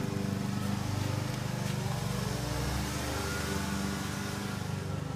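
Car engine running steadily, with a faint rising whine about halfway through.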